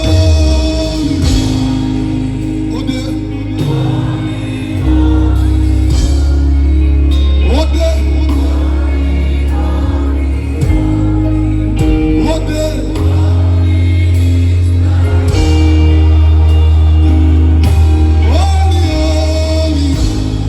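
Live gospel worship music played slowly, with long held bass notes and sustained chords under wordless or indistinct singing.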